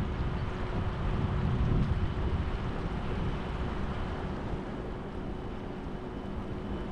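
Wind rumbling on the microphone over a steady low background rumble, with a faint steady hum. The rumble is strongest in the first two seconds, then settles lower.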